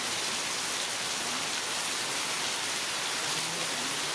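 Heavy rain falling steadily: a dense, even hiss that neither builds nor eases.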